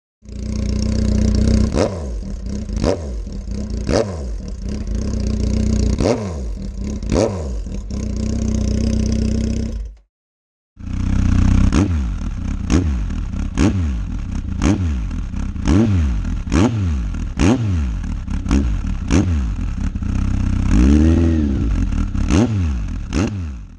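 Honda CB1300's inline-four engine idling through its exhaust, with short sharp throttle blips about once a second. It is heard in two takes with a brief gap between them, and the second take ends with one longer rev that rises and falls.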